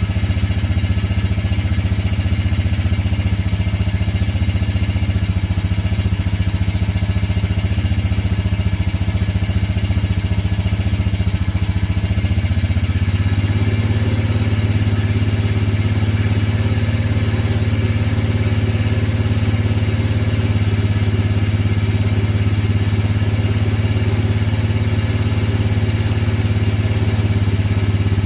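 Vehicle engine idling steadily while still cold, shortly after a cold start. About twelve seconds in, the idle note steps to a slightly different, fuller pitch.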